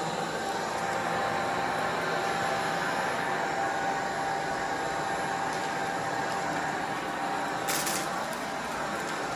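Vacuum cleaner running steadily on a rug, its motor giving a steady whine over the airflow, with a brief burst of hiss about eight seconds in as it pulls up debris from the mess test.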